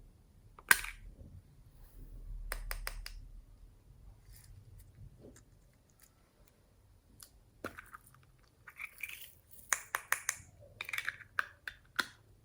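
Slime being squished and kneaded by hand, making sticky pops and crackles: one loud pop about a second in, a quick cluster of clicks between two and three seconds in, then a dense run of pops and crackles in the last few seconds.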